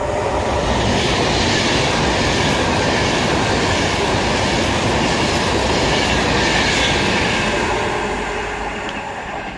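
Class 390 Pendolino electric train running through the station without stopping: a steady rush of wheel and rail noise that fades near the end as the train draws away.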